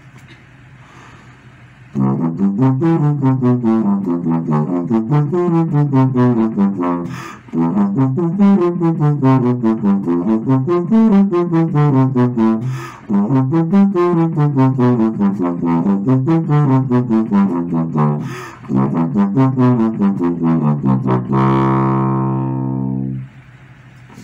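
Solo tuba playing fast runs of rising and falling notes in four phrases with short breaks for breath, starting about two seconds in. It ends on one long held low note that stops about a second before the end.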